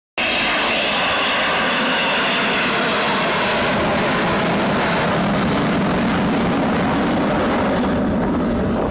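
Avro Vulcan's four Rolls-Royce Olympus turbojets, loud jet noise in flight. High whining tones over the rush fade over the first few seconds while a deep rumble grows stronger toward the end, as the bomber passes.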